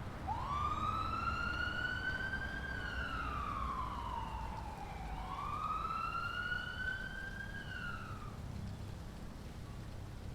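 Emergency vehicle siren wailing in two slow rising-and-falling sweeps, over a low background rumble.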